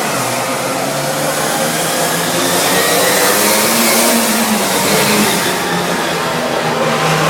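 Monster truck engine running hard under a dense rushing noise, revving higher about three seconds in and easing back after about five seconds.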